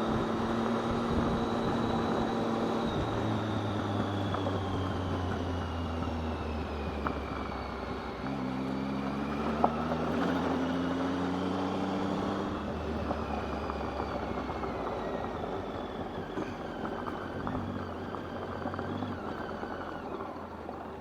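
Motorcycle engine running under way, its note changing pitch a few times and climbing after a change about eight seconds in, under a steady rush of wind and tyre noise on a gravel road.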